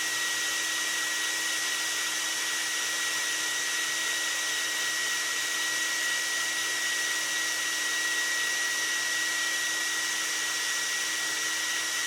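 Vacuum cleaner motor running steadily, with a constant high whine over its airflow rush.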